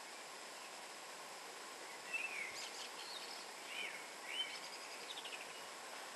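A songbird singing several short phrases of quick whistled notes that rise and fall, ending in a fast trill, over a steady background hiss.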